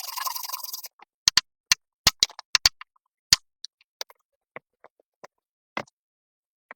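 A brief rustling noise, then a string of irregular sharp clicks and taps that come quickly at first and then spread out and grow fainter.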